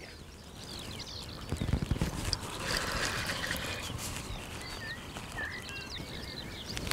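Small birds chirping and singing over lakeside ambience, in many short rising and falling calls. A few low buffets or thumps come about two seconds in.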